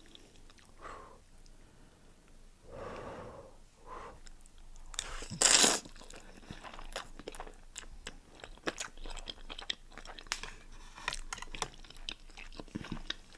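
Close-miked eating sounds: chewing with many wet, crunchy mouth clicks. One loud noisy burst, under a second long, comes about halfway through.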